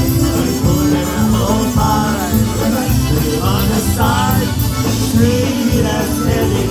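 Live polka band playing an instrumental passage between verses, with a steady beat and a melodic lead.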